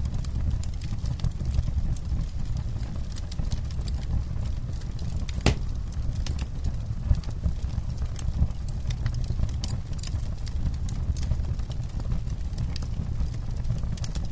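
Wood campfire crackling, with frequent irregular sharp pops and one louder snap about five and a half seconds in, over a steady low rumble of the flames.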